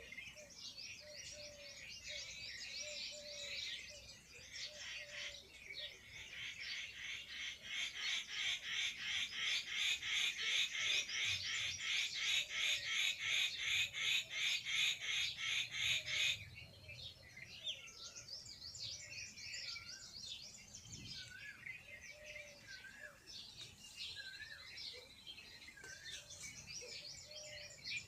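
Many birds chirping and twittering. Through the middle a louder, rapidly pulsing call rises and then cuts off suddenly.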